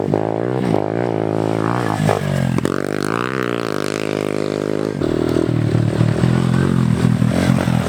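Pit bike engine revving up and down several times, then settling into a lower, steadier note about five seconds in.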